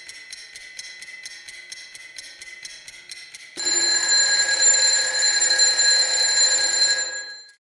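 Radio station news jingle: a fast, regular run of bell-like ticks, about five a second, then from about three and a half seconds in a louder held chord of bright ringing tones that fades out shortly before the end.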